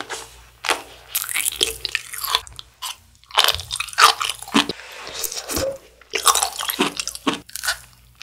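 Close-miked eating sounds: biting into and chewing kielbasa sausage and grilled cheese, a series of irregular wet crunches and snaps with short pauses between bites.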